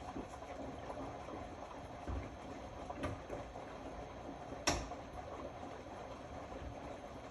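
Indesit Innex BWE 91496X washing machine running a wash, its drum turning with water sloshing and soft thumps of the laundry, and one sharper knock about four and a half seconds in.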